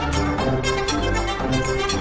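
Orchestral film score: brass and strings playing over a steady percussive beat.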